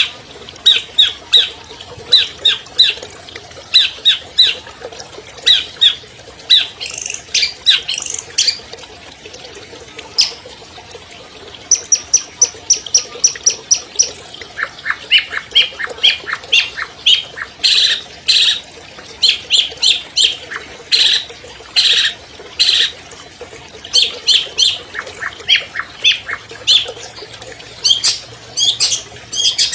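Long-tailed shrike singing a fast, harsh song of short sharp notes in quick clusters. About twelve seconds in comes a rapid run of high repeated notes, and soon after a run of notes that climbs in pitch.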